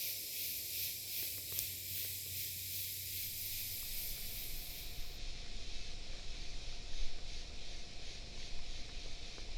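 Steady hiss of rain falling in woodland; about halfway through the highest part of the hiss cuts off abruptly and a faint steady hum with a low rumble is left.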